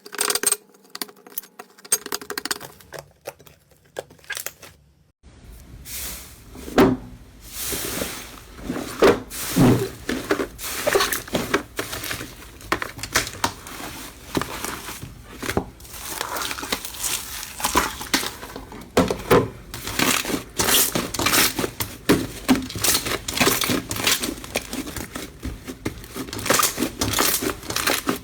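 Slime being squeezed and pressed by hand, making a run of sticky clicks, pops and crackles. The sounds are sparse for about the first five seconds, then come thick and fast.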